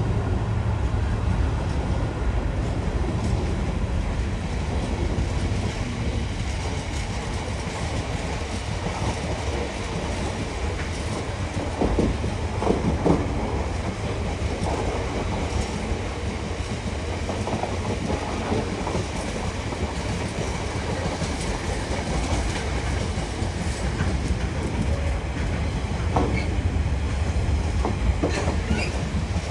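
A long freight train hauled by a class 66 diesel rolling past: a continuous rumble of wagons with the clickety-clack of wheels over rail joints and scattered knocks and clanks.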